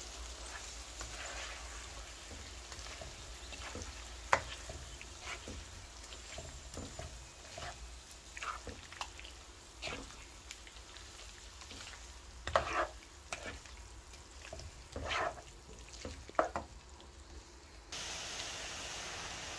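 Potatoes and eggs frying gently in a non-stick wok, with a faint sizzle while a spatula stirs and scrapes, giving scattered taps against the pan. Near the end the sizzle turns to a steadier hiss.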